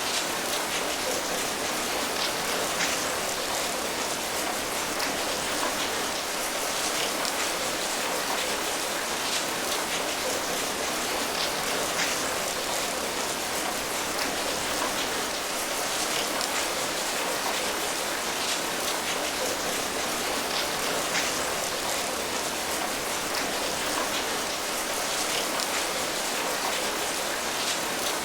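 Steady rain falling, an even hiss with scattered individual drop patters.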